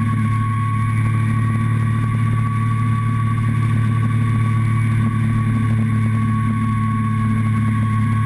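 Motorcycle engine running at a steady speed and constant revs, heard close up from a camera on the fuel tank.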